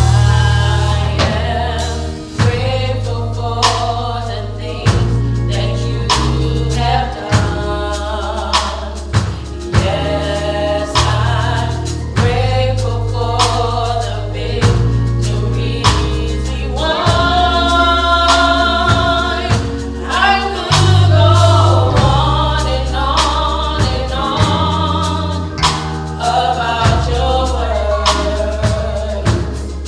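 Gospel choir singing with a band, with bass and regular drum beats underneath.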